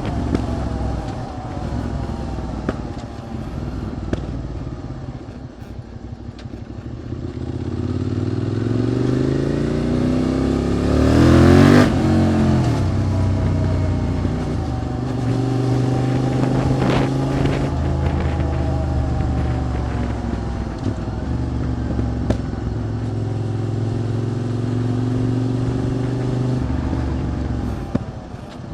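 QJ SVT650X motorcycle's V-twin engine, through an Arrow Racetech aftermarket exhaust, heard while riding. The engine note climbs under acceleration to its loudest point about twelve seconds in, then settles to a steadier cruise and drops off near the end.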